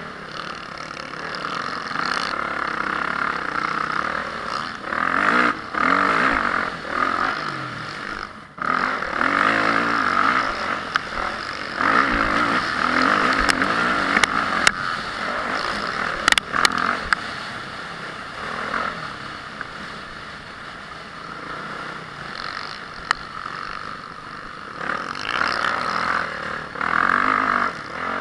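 Motocross bike engine, the four-stroke single of a Honda CRF450R, being ridden round the track, its revs swelling and dropping every few seconds. A few sharp clicks come in the middle.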